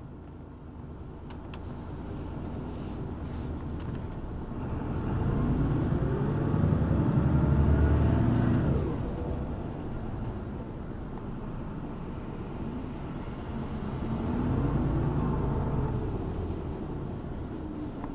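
City bus engine heard from inside the cabin, pulling away. It revs up and grows louder, drops sharply at a gear change about nine seconds in, then rises again and falls back at a second shift near the end.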